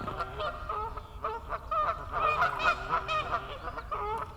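Geese honking, a flock calling over one another in a rapid run of short honks.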